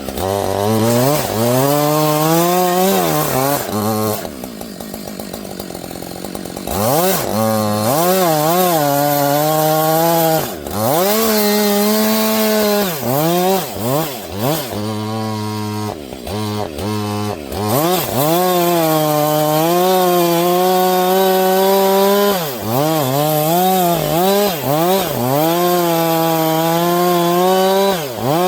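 Husqvarna 562 XP two-stroke chainsaw cutting wood with a dull chain, its engine pitch sagging and recovering again and again as the chain bogs in the cut. About 4 seconds in it drops back to a lower, quieter run, then revs up again near 7 seconds.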